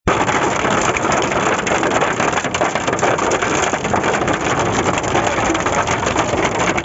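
Hail and heavy rain falling hard: a loud, steady clatter of countless small hits on a surface.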